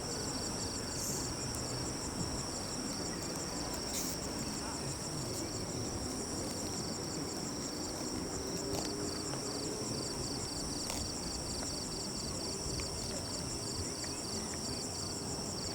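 Insects chirping: a steady high trill with rows of rapid, evenly repeated chirps above and below it, over a low background murmur.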